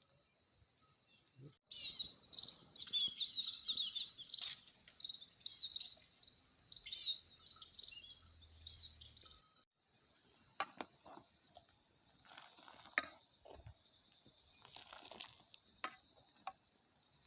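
Birds singing in quick, repeated chirps over a steady high drone of insects, cutting off suddenly after several seconds. Then scattered sharp clicks and short rustling noises.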